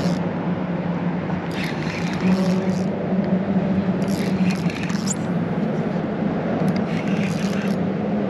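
Steady electric hum of the kayak's Minn Kota trolling motor holding position on Spot-Lock, with three short scraping, rustling bursts on top.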